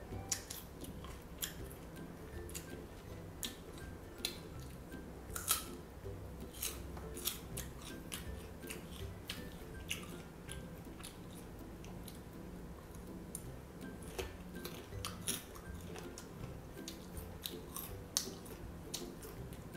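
Crisp crunching bites and chewing of green ambarella fruit, irregular sharp crunches every second or so, over quiet background music.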